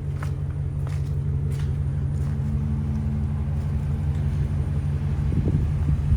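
Steady low rumble of an idling engine, with a few faint knocks in the first half and a louder rough rumble building near the end.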